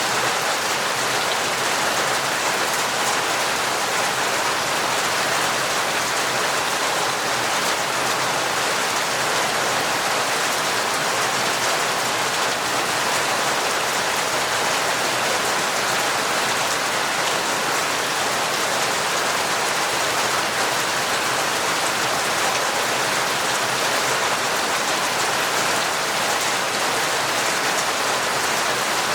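Heavy rain falling steadily: a dense, even hiss of drops that does not change.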